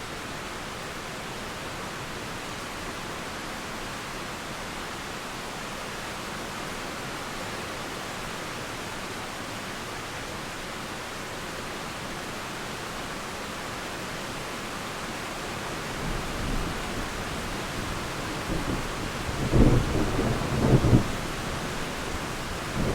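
Steady rain hiss, then a roll of thunder that builds about two-thirds of the way through into loud, crackling peals before easing off near the end.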